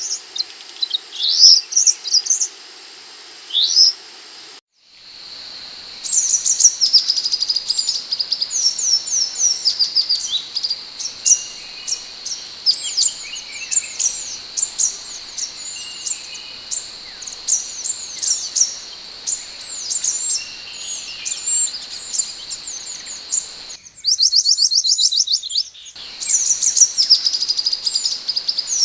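Scarlet minivet (sepah hutan) singing: quick runs of short, sharp, high chirps, each sweeping downward, over a steady high-pitched tone. There are brief breaks about five seconds in and again near the end.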